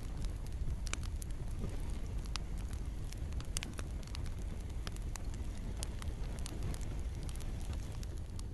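Campfire burning, with frequent sharp, irregular crackles and pops over a steady low rumble, and gentle rain in the background.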